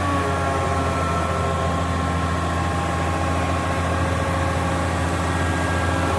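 Tractor engine running at a steady, even speed.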